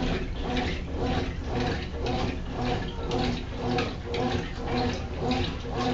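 Consul CWC08 washing machine agitating a load in water: the motor hums as it swings back and forth about twice a second, with water sloshing on each stroke.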